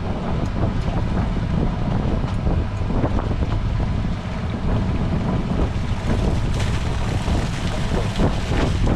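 Boat at sea with a steady low rumble, and wind buffeting the microphone.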